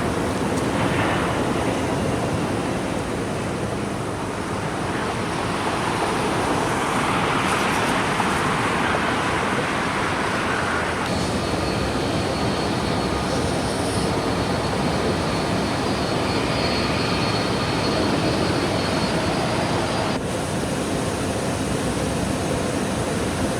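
Jet airliner engines running loud and steady. A steady high whine rides over the roar through the middle stretch, and the sound changes abruptly twice.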